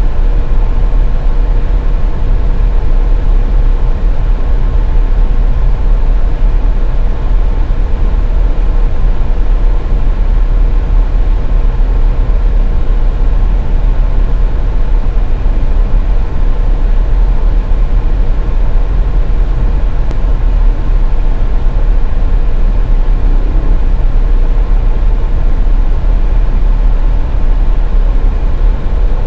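Steady, loud low rumble of a car driving: road and engine noise, with a faint steady hum.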